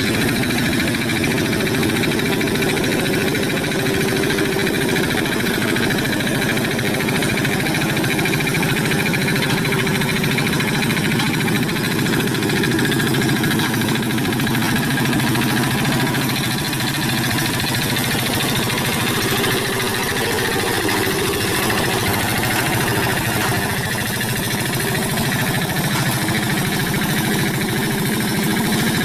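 Hand tractor's single-cylinder diesel engine running steadily with a fast, even chugging beat.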